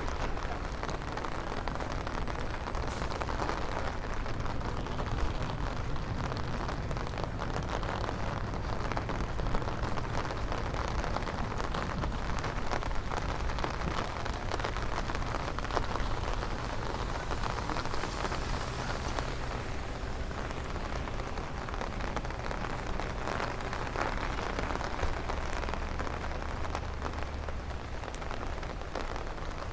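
Steady rain falling, a dense spread of small drop ticks over an even hiss, with a low steady rumble underneath.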